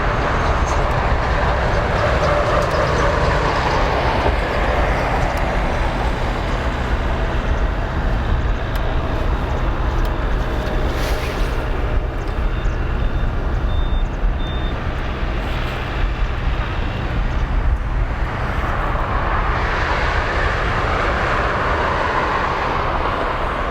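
Boeing 777-300ER's twin GE90 turbofans at takeoff thrust, a loud continuous jet rumble as the airliner climbs out after its takeoff roll. The hiss slowly shifts in pitch near the start and again near the end.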